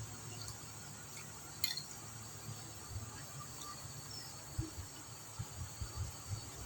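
Soft chewing and mouth sounds of someone eating, with a light clink on a plate about a second and a half in, over a faint steady hiss.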